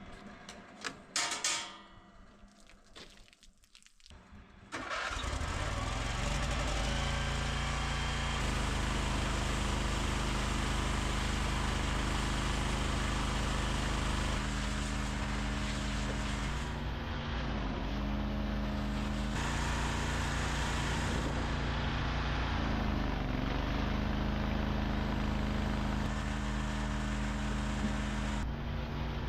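A machine starts up about five seconds in and then runs steadily, its pitch stepping a few times.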